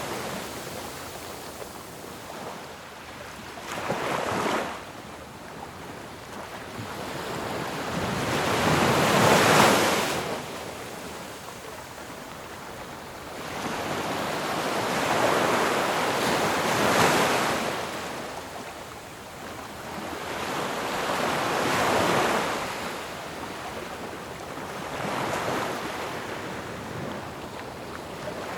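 Ocean surf: waves breaking on the shore one after another, each a rushing swell that builds and falls away every four to six seconds, with a short, sharper surge about four seconds in.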